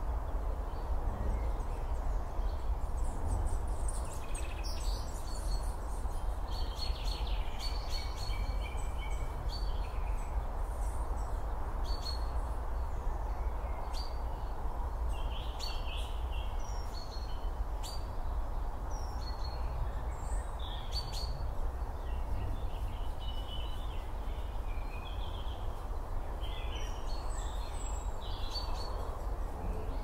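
Several small birds chirping and calling in short scattered phrases, over a steady low rumble of outdoor background noise.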